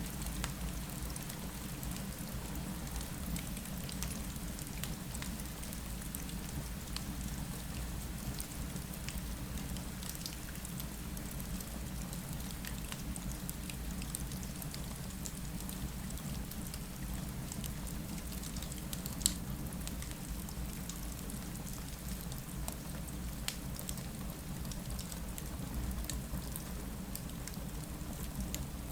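Steady rain against a window blended with a crackling fireplace: an even hiss over a low rumble, with scattered small pops and one sharper pop about two-thirds of the way through.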